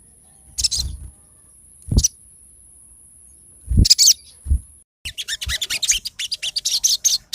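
Sogon bird song from a lure recording: three separate high chirps, each with a low thump under it, over a thin steady high whine, then from about five seconds in a rapid run of sharp chirps, several a second.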